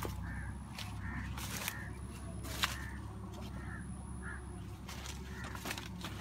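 A bird calling with short, repeated notes, about two a second, over sharp crackles of maize leaves and stalks being brushed past, with a steady low rumble beneath.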